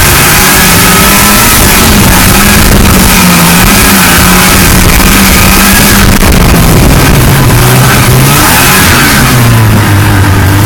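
1979 Ski-Doo Blizzard 5500 snowmobile's two-stroke engine running loud under way, its pitch wavering up and down, then dropping to a lower, steadier note near the end as it slows. A steady rushing noise runs under it.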